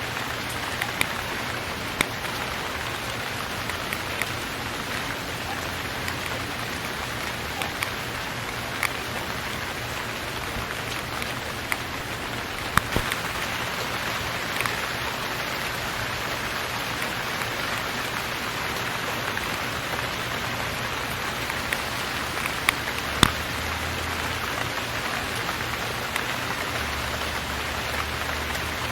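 Steady rain falling, with scattered sharper clicks of single drops landing close by.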